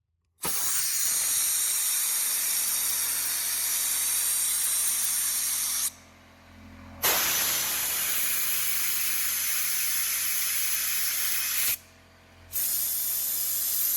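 Compressed air blown through a carburetor's passages and jets to clean them, a loud hiss in three long blasts with short breaks between.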